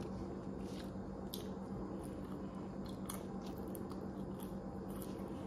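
A person chewing a French fry, with short wet mouth clicks and smacks scattered through, over a steady low hum.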